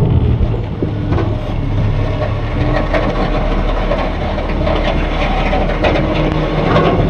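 Front-load garbage truck's diesel engine running steadily, with metallic clanks and rattles throughout.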